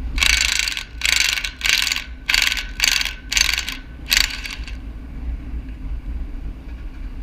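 A metal ratchet mechanism being worked in about seven short rasping bursts over the first four seconds or so, over a low steady rumble.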